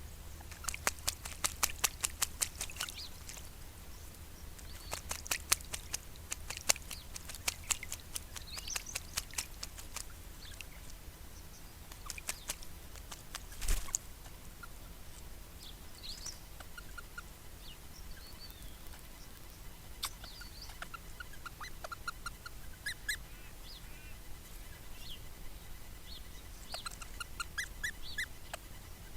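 Mallee ringneck parrots splashing in a water trough as they bathe, in quick runs of splashes through the first half. Short chirping bird calls follow in the second half.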